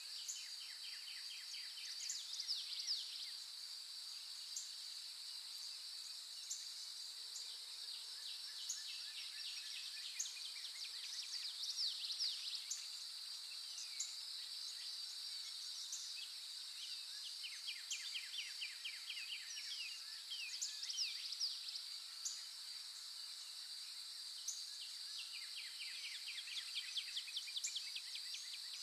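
A steady, high-pitched insect chorus, with birds calling in quick trills every few seconds over it.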